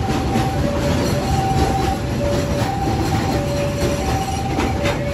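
Freight train of container flatcars rolling past close by, a steady rumble of wheels on rail with a few sharp wheel clicks near the end. Over it a two-tone electronic warning alarm sounds, alternating a high and a low note roughly every 0.7 seconds.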